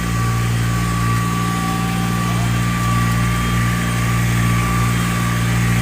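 Tractor engine running steadily at an even speed, a constant low hum with a thin steady high whine above it.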